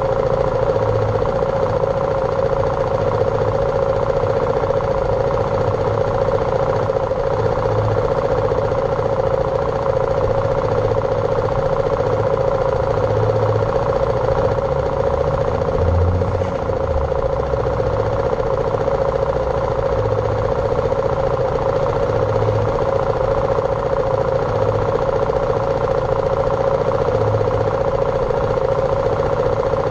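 BMW G310R's single-cylinder engine running at a steady, unchanging pitch while riding, with a low rumble of wind and road noise and occasional low thumps.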